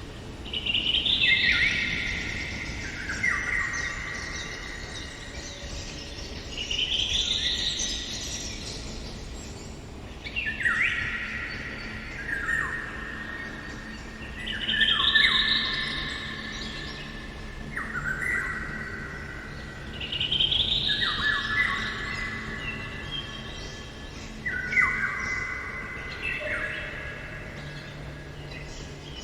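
Eurasian golden oriole singing: phrases every few seconds, each a rising whistle that falls away in steps to lower held notes with a trailing, echo-like tail.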